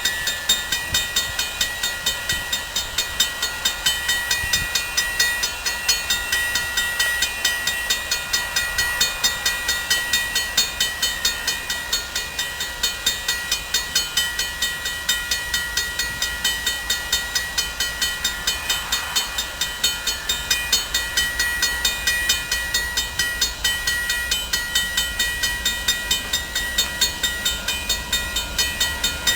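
A train, with a steady sound that beats regularly about three times a second, mixed with several steady high tones.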